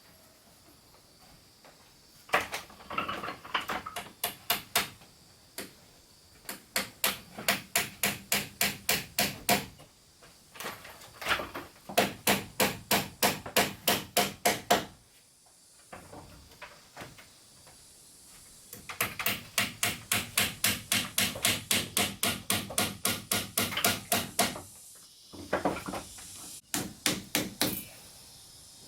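Hammer blows on wood, struck in quick even runs of about three a second, in five bursts with short pauses between them.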